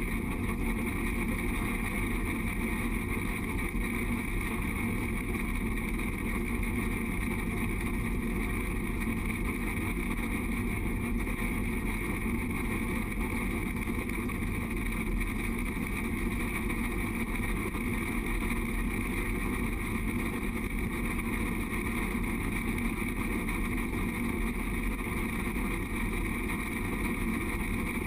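Steady, even rumble of the Durango & Silverton narrow-gauge train running along its track, picked up by a camera mounted at the front of the locomotive.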